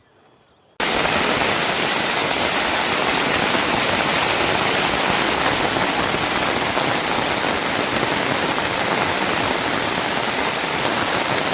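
Heavy rain pouring down: a loud, steady rush that begins abruptly about a second in.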